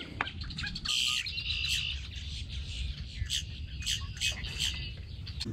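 Birds calling: a held, buzzy call about a second in, then several short, sharp notes spaced about half a second apart.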